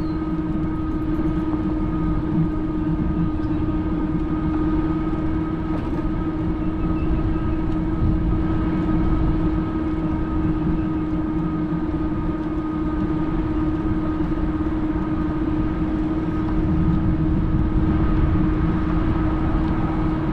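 Fat-tire e-bike riding along at a constant speed: a steady, unchanging whine from the motor and fat tyres over a rough rumble of tyre and wind noise.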